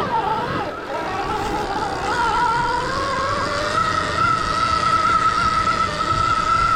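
Stark Varg EX electric dirt bike's motor whining, rising in pitch over the first few seconds as the bike speeds up, then holding a steady pitch over a rough rumble.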